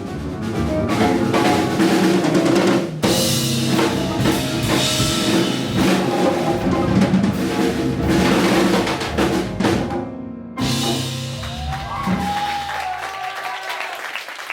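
Live Latin jazz band in full: drum kit and hand percussion driving hard under bass, piano and trumpet through the closing bars. The band stops dead just after ten seconds in, hits a final held chord, and near the end the audience starts applauding and cheering.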